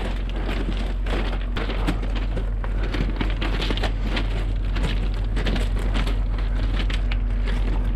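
Freight train noise: a steady low diesel hum under dense, irregular crunching and crackling clicks.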